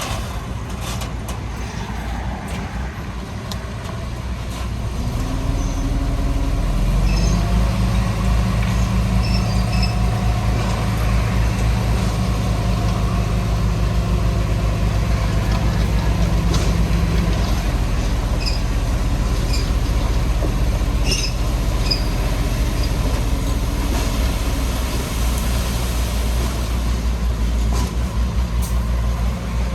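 Heavy diesel engine of earthmoving machinery running steadily. It builds up under load about five seconds in and holds there, with faint scattered high squeaks and clicks.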